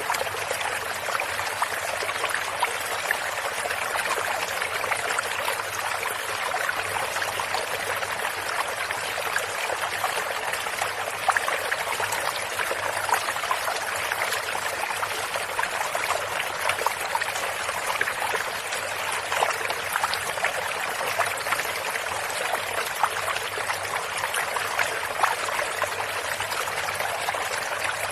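Shallow stream running steadily, with many small splashes and trickles over the flow.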